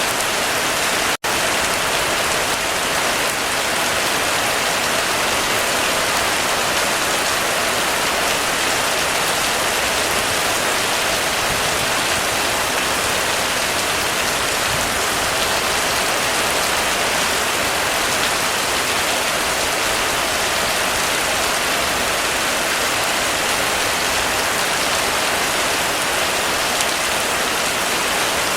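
Heavy rain falling steadily on a roof, a dense, even hiss of drops. About a second in, the sound cuts out for a split second and then resumes.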